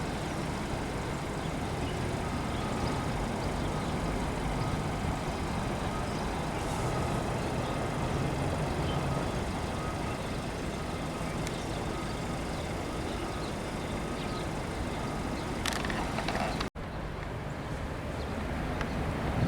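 Steady low engine rumble of a vehicle with traffic-like background noise, broken by a sudden brief dropout about 17 seconds in before the rumble resumes and grows louder.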